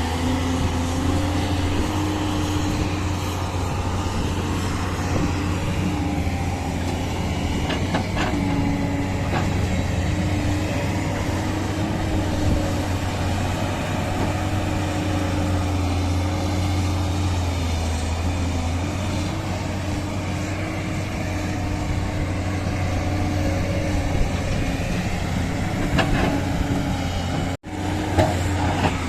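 Diesel engines of heavy earthmoving machinery running steadily, their pitch rising and dipping slightly as the load changes, with a few faint clanks. The sound cuts out briefly near the end.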